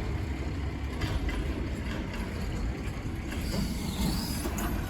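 Garbage truck's engine running with a steady low rumble.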